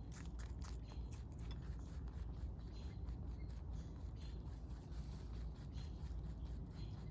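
Rabbit chewing close to the microphone: quick, irregular crunching clicks, several a second, over a steady low hum.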